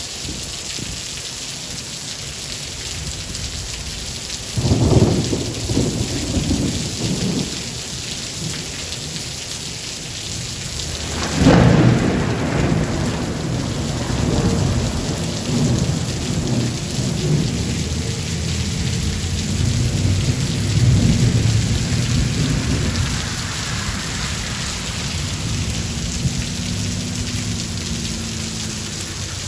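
Steady heavy rain with two peals of thunder: a short clap about five seconds in, then a louder crack a few seconds later that rolls on as low rumbling for about ten seconds.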